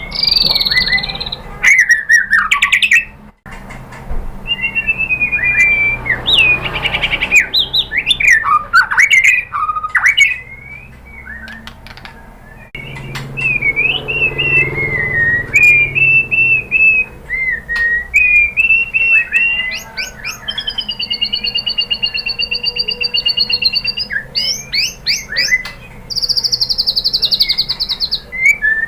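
White-rumped shama (murai batu) singing a long, varied song of fast whistled phrases and slurred notes, with quick ticking runs and a long steady held note about two-thirds through. A high buzzy note comes near the end, and the song breaks off abruptly for a moment a couple of times.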